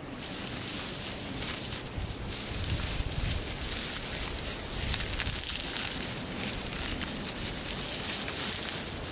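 Dry tall grass rustling and crackling as it is twisted by hand into a tinder nest, with many small crackles throughout.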